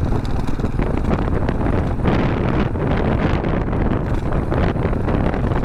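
Wind buffeting the microphone of a GoPro on a moving motorcycle: a loud, steady rumble.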